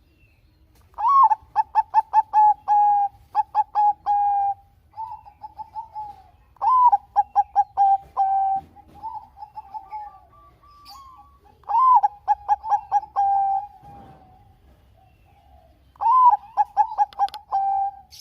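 Bangkok-line zebra dove (perkutut) singing: four song phrases, each opening with a rising-then-falling note, then a quick run of short stuttered notes and a held coo, with softer cooing in between.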